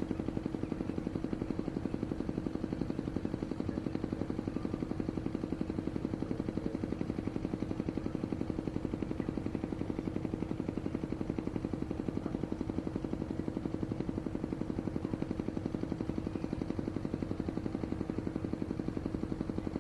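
A motor running steadily, with a rapid, even pulsing and a steady hum that do not change.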